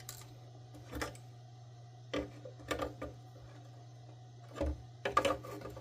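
Small plastic and metal vacuum parts being handled on a workbench: a scattering of short clicks and knocks, half a dozen in all, over a steady low hum.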